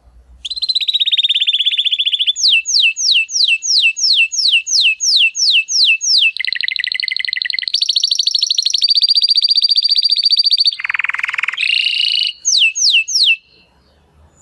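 Timbrado canary (Spanish song canary) singing one long song of linked phrases: a fast trill, then a run of quick falling notes about five a second, a rapid lower rattle, a long steady high trill, a brief lower buzzy phrase, and a few more falling notes before it stops.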